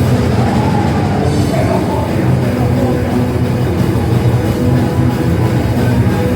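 Punk band playing loud, dense rock: electric guitar and drum kit, with no break.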